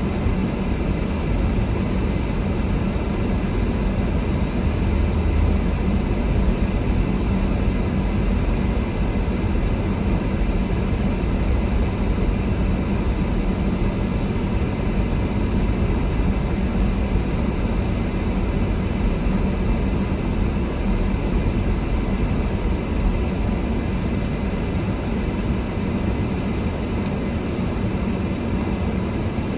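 A car on the move: a steady low rumble of engine and tyres, with a faint even hum and no change in pace.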